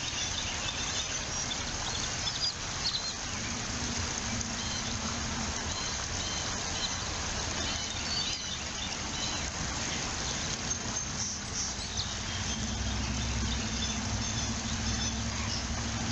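Steady outdoor background noise with faint, short high-pitched bird chirps now and then.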